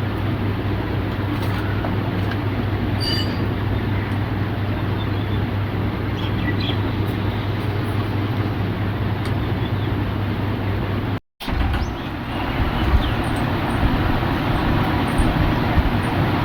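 Steady background rumble with a low hum, broken by a brief dropout about eleven seconds in, after which the low rumble turns rougher and more uneven.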